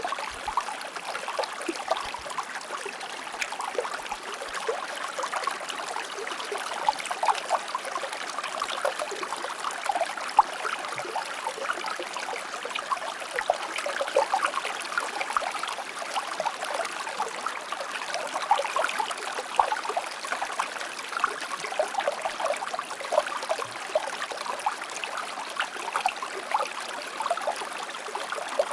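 Shallow stream of water flowing and trickling steadily, with many small splashes and gurgles over the rocks.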